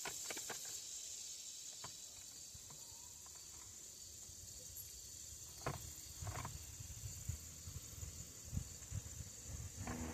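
Insects buzzing steadily in a high-pitched drone, with a few sharp clicks and low knocks of a chainsaw being handled, louder from about halfway through. The saw is not running.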